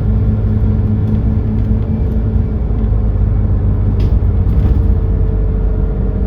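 Doosan GX12P natural-gas (CNG) engine of a Smart 110G city bus running with a steady low drone, heard from inside the bus, with a couple of faint clicks near the middle.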